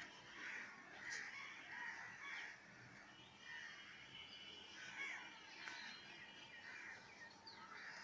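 Faint chorus of birds calling: many short, overlapping calls, one after another.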